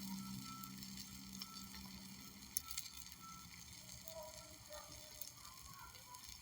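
Faint steady hiss with a few small ticks; a low hum fades out in the first half, and faint short tones come and go in the second half.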